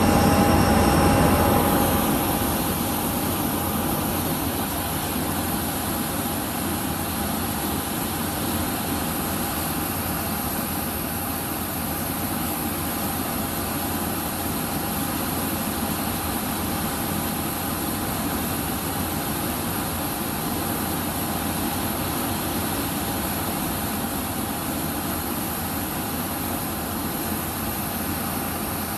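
Jet airliner engines running with a steady drone and a faint steady whine, a little louder for the first two seconds, then level.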